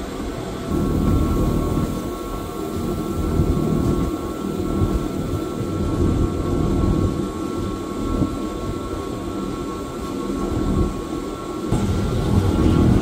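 Electric Wengernalp railway train running, heard from inside the carriage: a steady rumble of wheels and running gear with a faint steady whine above it, swelling slightly about a second in and again near the end.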